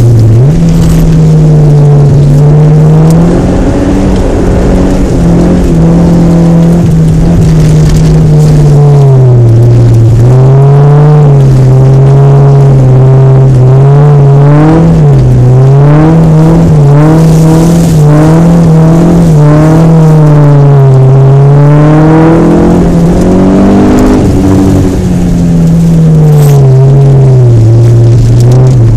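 Honda Civic 4WD's engine revving hard while lapping on snow and ice, its pitch climbing and dropping again and again as the car accelerates and lifts through the corners. It is loud throughout.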